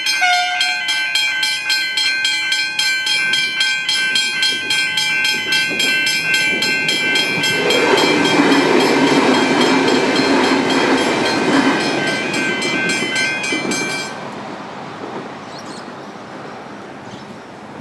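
Level crossing bell ringing with rapid, even strikes while a train passes over the crossing, loudest from about 8 to 12 seconds in. The bell cuts off suddenly about 14 seconds in, and the train noise fades away.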